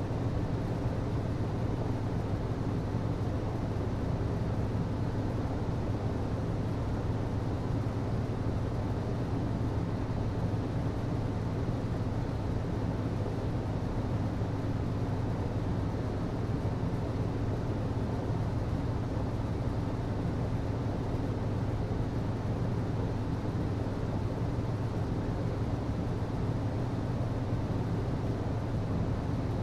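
HVAC system running steadily: a constant low hum with an even rush of air over it.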